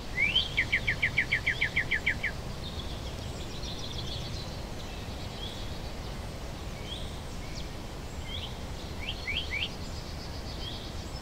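Birds singing: a song of about a dozen quick repeated notes in the first two seconds, then higher, fainter trills and scattered chirps, over a low steady rumble of background noise.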